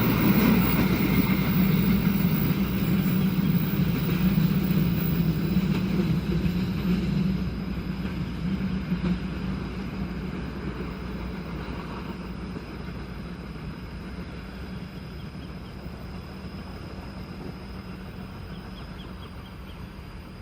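Train rumbling past and moving away. A low steady drone is strong for the first seven seconds or so, then the rumble fades steadily.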